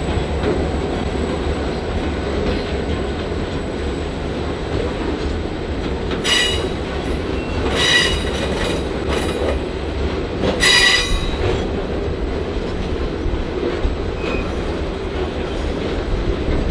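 Loaded aggregate hopper wagons of a freight train rolling past with a steady low rumble. Brief high-pitched wheel squeals cut in three times, about six, eight and eleven seconds in.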